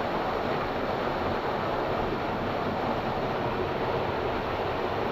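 Steady rush of fast-flowing water in a mountain canyon, an even roar with no breaks.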